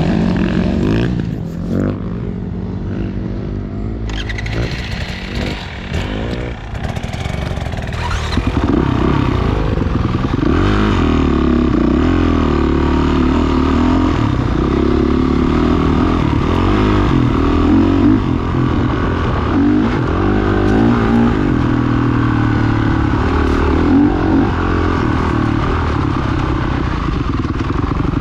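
Off-road motorcycle engine revving, its pitch rising and falling again and again; it grows louder about eight seconds in.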